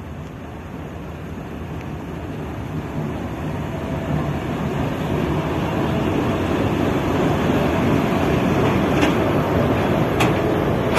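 Passenger train rolling slowly past at close range, a steady rumble that grows steadily louder as the locomotive and coaches come alongside, with a few sharp clicks near the end.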